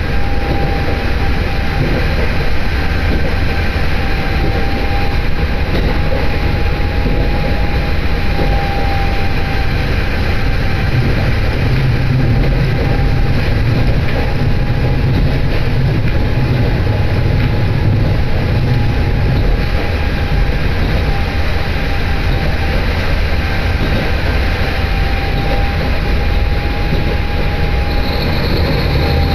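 Inside the cabin of a diesel train running along the non-electrified Nemuro Line: a steady engine and wheel rumble with a constant high whine over it. A higher hiss joins near the end.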